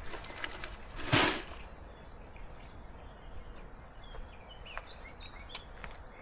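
Outdoor ambience with faint bird chirps and one brief, loud noisy burst about a second in.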